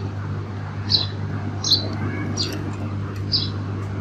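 A small bird chirping about four times, short high chirps that fall in pitch, over a steady low hum.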